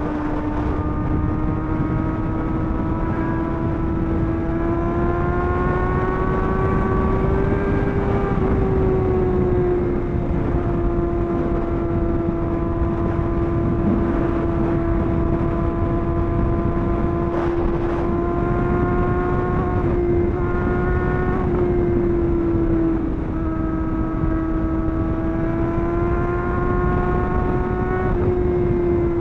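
Sport-bike engine running at a steady high pitch while cruising on the highway, its note rising and falling gently a few times, over a continuous low rush of wind noise.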